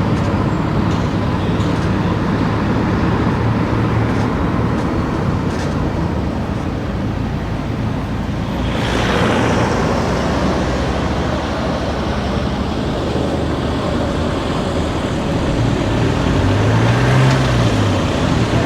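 Car driving through town streets: steady engine and road noise, with a brief swell of noise about nine seconds in and the engine note rising and falling near the end.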